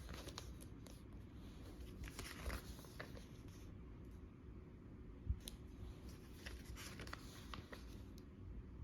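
Pages of a filled journal being turned by hand: faint paper rustles and light taps, with one sharper knock about five seconds in.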